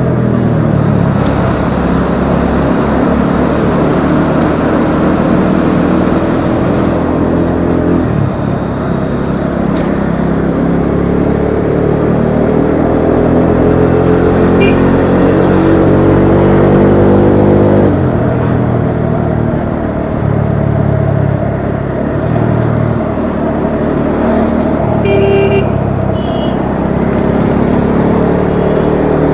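Bajaj Dominar 400's single-cylinder engine running under way, with the revs climbing steadily through a long pull in the middle, dropping suddenly, then climbing again near the end. A vehicle horn beeps briefly late on.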